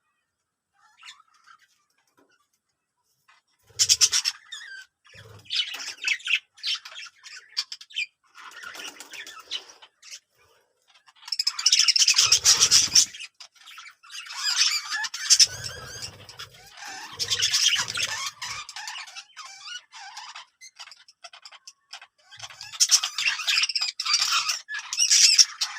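Birds squawking and chattering in harsh, rapid bursts of calls that begin about four seconds in and come in several loud clusters.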